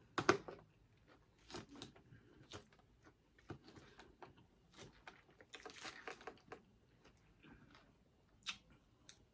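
A person chewing and biting food close to the microphone: scattered crisp crunches and mouth clicks, the loudest just after the start and a busier patch around the middle.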